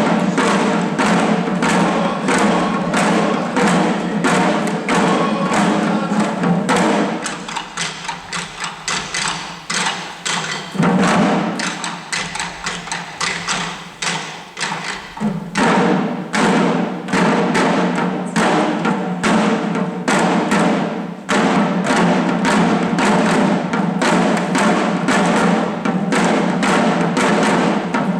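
Shishi odori deer-dance drums, the small taiko carried by the dancers, beaten in a fast, steady rhythm. The beating thins and quiets for several seconds about a quarter of the way in, then comes back at full strength.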